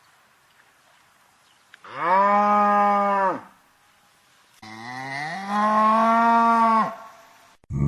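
A cow mooing twice: two long, drawn-out moos, the second starting low and rising in pitch before holding steady.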